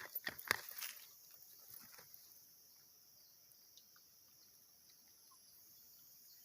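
A few sharp digging strikes in the first second, then a steady high-pitched chorus of insects droning in the jungle.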